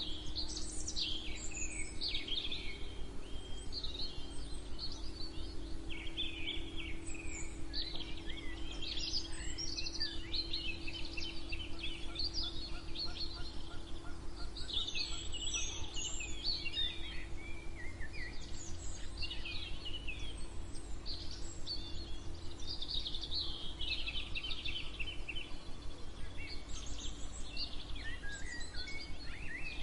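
Several songbirds singing and chirping over one another in a dawn chorus, with quick trills and rising and falling whistles. A steady low hum and rumble run underneath.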